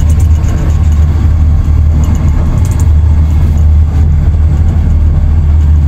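Blue Line Park Sky Capsule running along its elevated rail, heard from inside the pod as a loud, steady low rumble.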